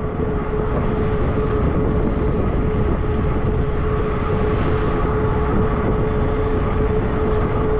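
Riding noise from a fat-tire electric bike at steady speed: wind rushing over the microphone and tyres humming on pavement, with a steady unbroken whine from the e-bike's motor.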